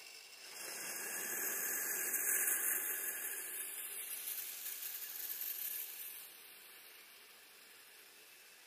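Tracked RC snow vehicle driving through snow: a steady hiss of motor and tracks churning snow that fades out about six seconds in.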